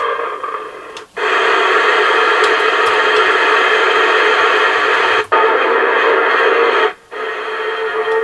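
AOR AR-2002 scanner receiver's loudspeaker hissing with static between stations, cutting out briefly three times.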